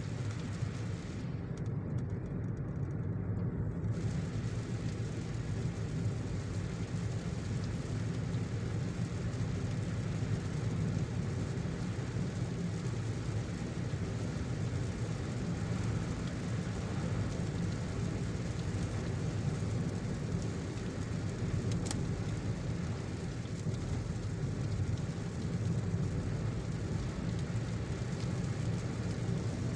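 Car driving in heavy rain: a steady low rumble of engine and tyres under an even hiss of rain.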